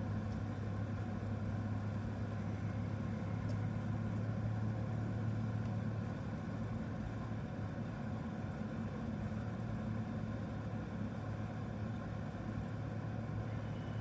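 Steady car engine hum and road noise heard from inside the cabin, a constant low drone with no change in pitch.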